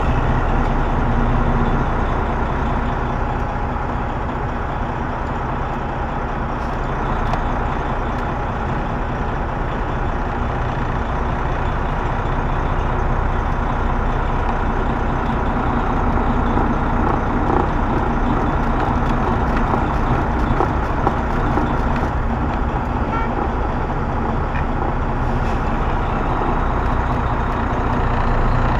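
Semi truck's diesel engine running steadily at low revs while the truck is slowly backed up.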